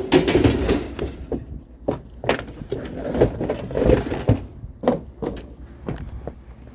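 Irregular knocks, bangs and rattles of curbside junk being handled and loaded, about a dozen sharp impacts spread over several seconds.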